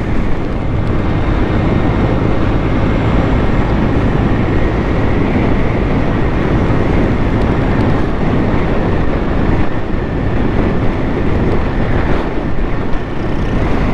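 Motorcycle running steadily while being ridden, its engine drone mixed with continuous wind and road noise.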